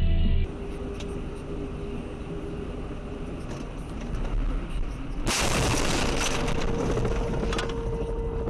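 Steady car road noise from a dashcam. About five seconds in it gives way to a sudden loud rushing noise with sharp cracks in it, lasting a few seconds.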